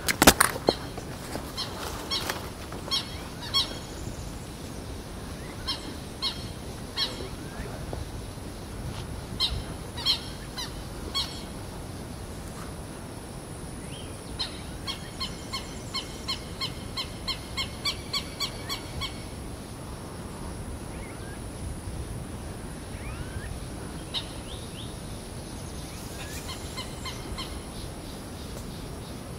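A bird calling repeatedly: short calls in pairs and small groups, then a fast, even run of about three or four calls a second for several seconds, and a few more calls near the end. A sharp knock sounds right at the start.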